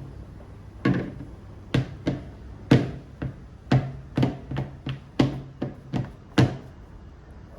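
A series of about a dozen dull thumps and knocks on a hard surface, irregularly spaced about half a second apart.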